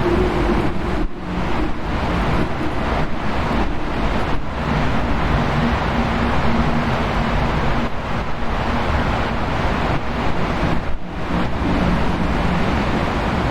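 Wind blowing steadily and loudly, with a low wavering tone running under the rush and brief lulls about a second in and near the end.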